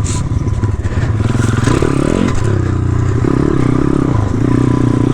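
Pit bike's small single-cylinder four-stroke engine running at low speed over rough trail, the revs rising and falling as the throttle is worked, with the bike clattering over the ground.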